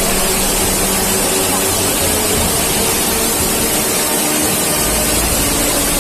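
Steady, loud rush of floodwater, an even hiss with no break.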